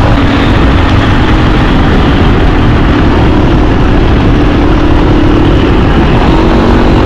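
Motorcycle engine running at a steady cruising pace, half buried under loud wind rush on the action camera's microphone.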